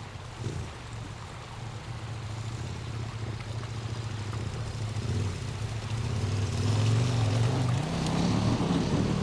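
Motorcycle engine running under way, growing louder over the second half as its pitch wavers with changing revs.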